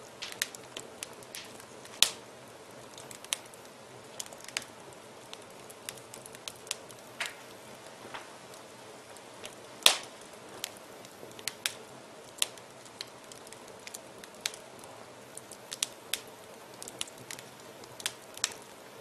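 Wood fire in a fireplace crackling: irregular sharp pops and snaps over a soft steady hiss, with the loudest pops about two seconds in and near the middle.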